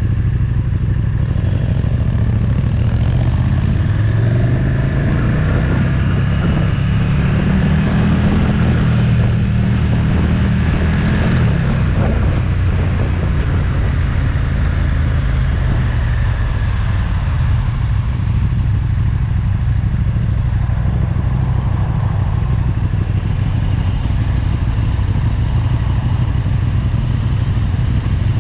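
Motorcycle engine running on the road. Its pitch climbs over several seconds as it accelerates, drops sharply about twelve seconds in, then holds steady.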